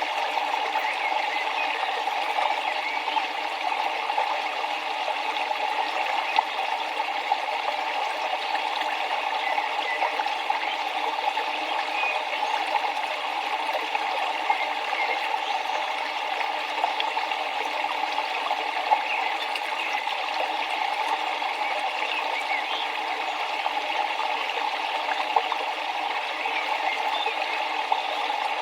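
River water flowing and splashing over rocks, a steady, even rush.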